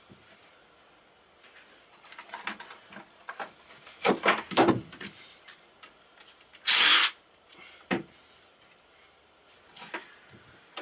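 Tools and metal engine parts knocking and clinking during work on a KLR 650 motorcycle engine, with a cluster of knocks a little before the middle and one short, loud hissing or whirring burst soon after.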